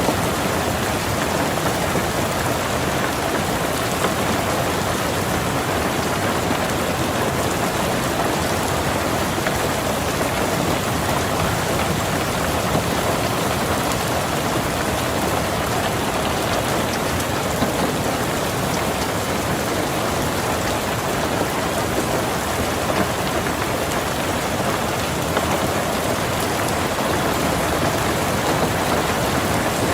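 Steady rain falling on a car, heard from inside the car: an even, unbroken patter with no let-up.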